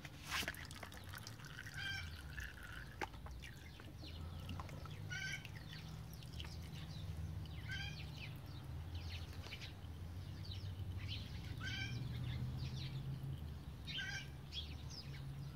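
Oil trickling and dripping from the old filter into the drain pan, while a bird gives a short call about every two to three seconds, five times in all.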